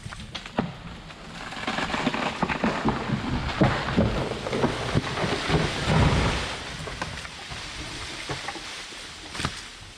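A felled tree going over: cracking and rushing through branches, building to a heavy crash about six seconds in, then settling.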